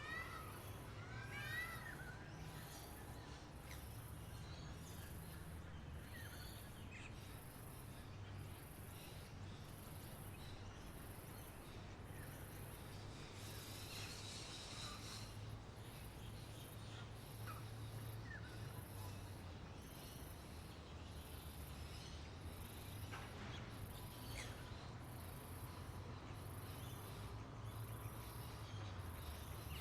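Bird ambience: scattered bird chirps and short calls over a high insect trill that pulses about once a second, with a low steady rumble.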